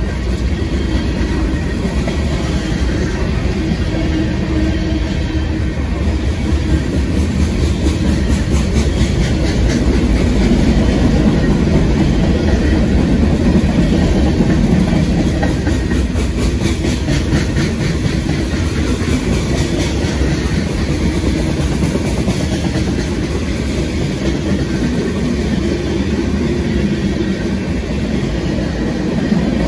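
Freight train cars, tank cars and boxcars, rolling past: a steady rumble of steel wheels on the rails, with the clickety-clack of wheels passing over rail joints.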